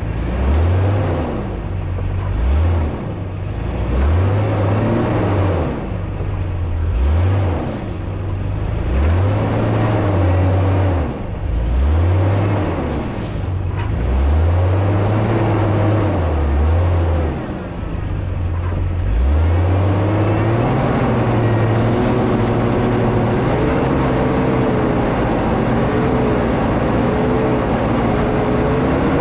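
Four-wheel-drive vehicle's engine revved up and let off over and over, about every two seconds, then held at higher revs with a slight waver for the last ten seconds or so.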